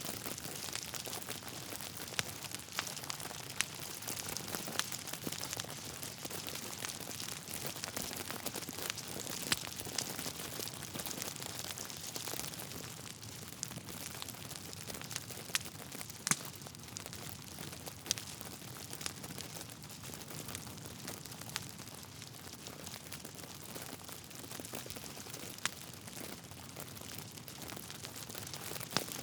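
Wood fire burning in a fireplace: a steady soft crackle of burning logs with scattered sharp pops, one of the louder ones a little past halfway.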